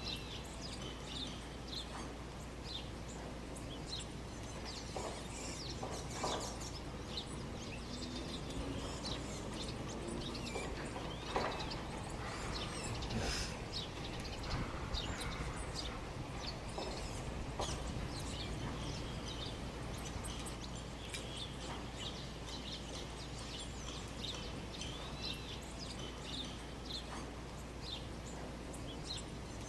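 Birds chirping, many short high calls scattered throughout over a steady background hiss.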